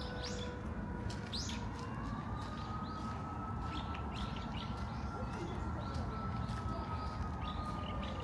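Small birds chirping in short, quick calls, busiest in the first two seconds and near the end, over a steady low rumble and a faint steady whine that steps up slightly in pitch about two seconds in.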